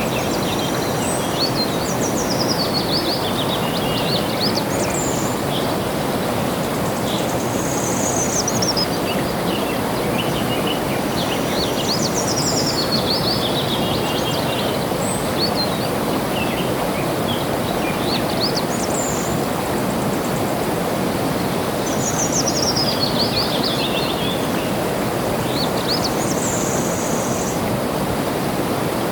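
Steadily flowing water with a constant rush, and a songbird singing over it: a quick descending series of chirps that repeats every five seconds or so.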